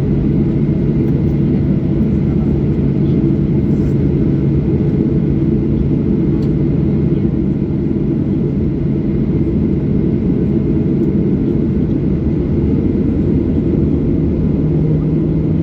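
Steady cabin noise inside a Boeing 737-800 with its CFM56 engines running, a constant rushing noise under a steady engine hum. The hum steps up slightly in pitch near the end.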